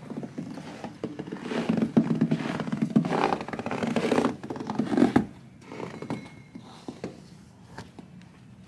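Rustling and handling noise with several knocks and thuds, loudest over the first five seconds, then dying down to faint scattered clicks.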